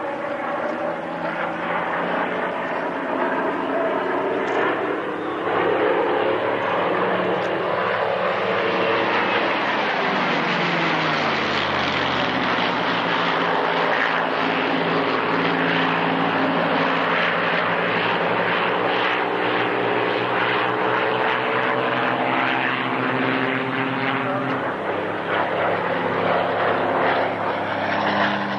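Spitfires' Rolls-Royce Merlin V12 piston engines running as the aircraft fly past in a display, the engine note falling in pitch as they go by, about ten seconds in and again near the end.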